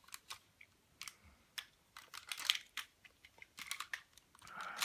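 Hard plastic parts of an Optimus Prime transforming toy figure clicking and rattling as they are handled and repositioned: irregular sharp clicks with a couple of brief scraping shuffles.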